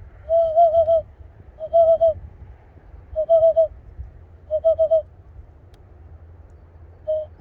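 Cupped-hand whistle imitating a bird, a hollow hooting note blown in quick clusters of three or four short notes, four clusters spaced about a second apart, then a single note near the end.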